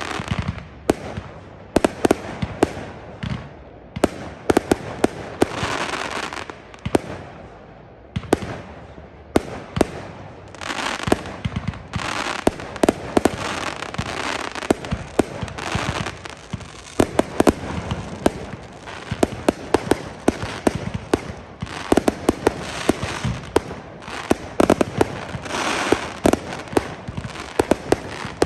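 Fireworks show: a rapid, continuous run of bangs and sharp cracks from bursting shells, with crackling fizz between them.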